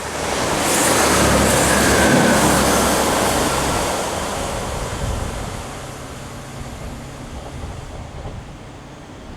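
LNER Peppercorn A1 Pacific steam locomotive 60163 Tornado and its support coach passing at speed. The rush of the train swells about a second in, peaks, then fades away over the next few seconds.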